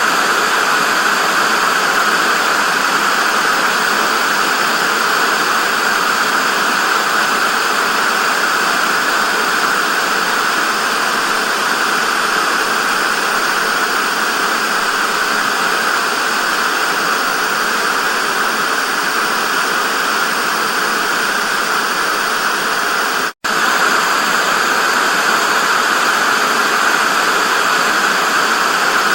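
Analog TV static: a steady, loud hiss with a bright, thin tone and little bass. It cuts out for a split second about 23 seconds in, then carries on unchanged.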